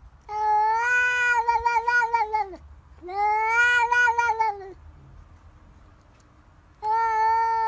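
Domestic cat yowling: three long, drawn-out calls, the first two wavering in pitch, the third starting near the end.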